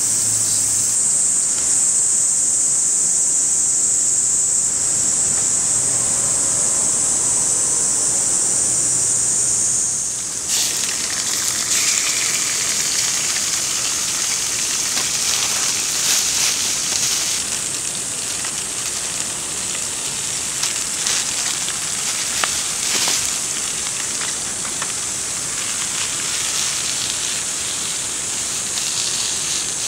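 A steady high-pitched hiss for about the first ten seconds. Then chicken pieces start sizzling and crackling in a wok on a portable cartridge gas stove.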